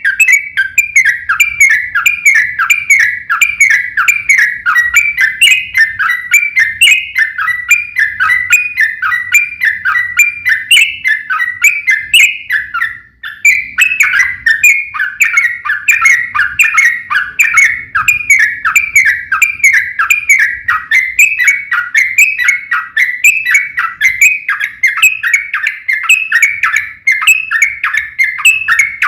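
Yellow-vented bulbul (trucuk) fighting song: a loud, continuous run of short, rapid notes in long rolls, breaking off briefly about thirteen seconds in.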